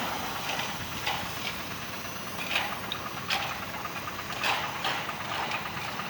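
A vehicle engine idling steadily, with a few short clicks and knocks scattered through.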